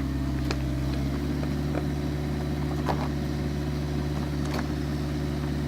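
Excavator engine running steadily at a constant speed, with a few short knocks about half a second, three seconds and four and a half seconds in.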